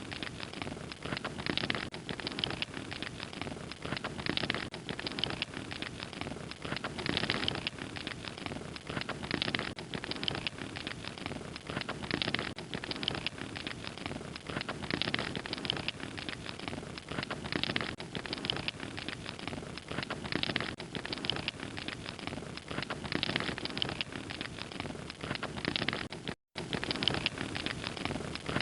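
Wood fire crackling steadily, with dense irregular pops and snaps over a soft hiss. The sound cuts out for a split second near the end.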